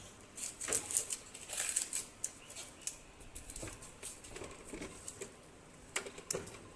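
Irregular light clicks and taps, some sharper than others, with no steady running tone.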